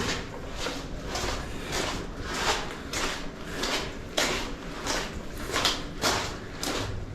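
Footsteps scuffing along a tunnel floor, a steady run of about two to three steps a second.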